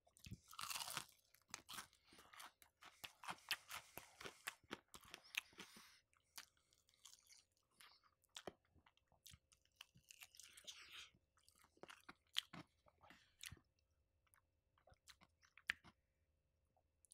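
Close-up chewing and crunching of crispy fried chicken, a dense run of crunches for the first several seconds, then sparser, softer chewing.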